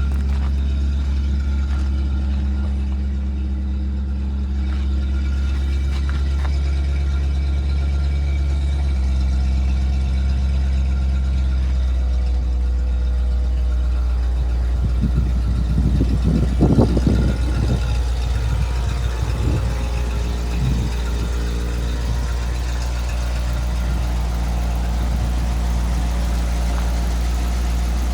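1977 Ford LN600 truck engine idling steadily; its note shifts slightly about a third of the way in, and some irregular rougher noise rises over it for a few seconds past the middle.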